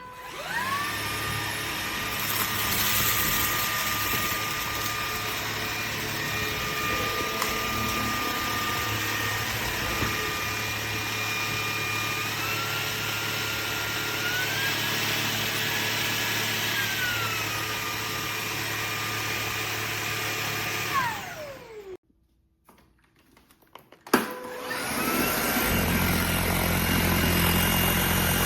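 Cordless vacuum cleaner motor switched on and running with a steady high whine, its pitch stepping up twice and then settling back. About three-quarters of the way through it is switched off and the whine falls away; after a click it starts up again near the end.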